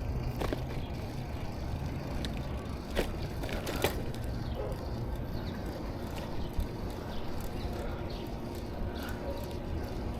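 Bicycle ride noise: a steady low rumble of wind on the microphone and tyres on the road, with a few sharp clicks and knocks about half a second, three and four seconds in.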